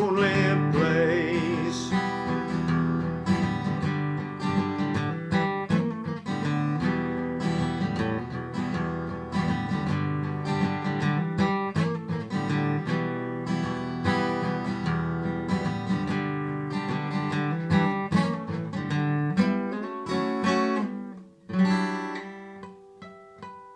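Guitar-led instrumental ending of a slow blues song, with strummed chords. The last sung note fades in the first couple of seconds, and the band stops about 21 s in on a final chord that rings down.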